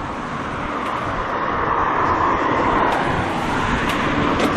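A car passes on the street, its tyre and engine noise swelling to a peak about halfway through and then easing off. A steady engine hum comes in near the end.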